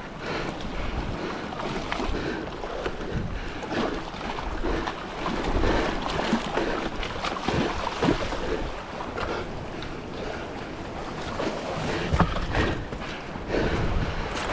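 Sea swell washing and surging against rocks, with wind buffeting the microphone and scattered short splashes and knocks.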